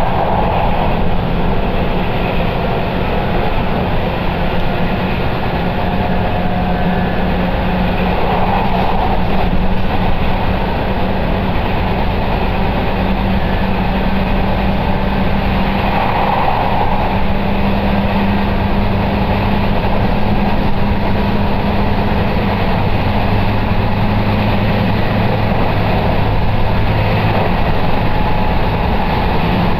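Electric commuter train heard from inside the carriage while running: a steady rumble of wheels on the rails with a low, even hum.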